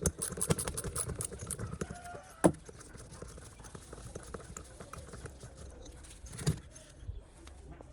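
Workshop handling sounds: small parts clattering and tapping, with a run of quick light clicks over the first couple of seconds and two sharp knocks, one about two and a half seconds in and one about six and a half seconds in.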